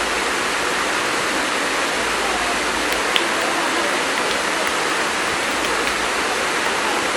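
Steady, loud rushing hiss, even across the range, that switched on abruptly just before and holds without change, with a faint click about three seconds in.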